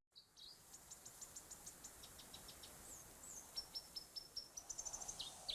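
Faint, high-pitched bird chirps in quick series of short notes, about four or five a second, with a few downward-slurring notes near the end, over a quiet outdoor ambience.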